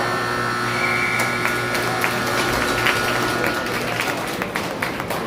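Hockey arena sound: a steady sound made of several held tones, over a background wash, stops about four seconds in. It is followed by a run of sharp clacks, typical of sticks and puck on the ice.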